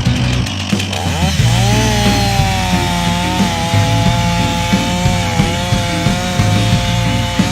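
STIHL chainsaw revving up about a second in, then running at high revs while cutting into a tree trunk, its pitch dipping slightly now and then under load. Background music with a steady beat plays underneath.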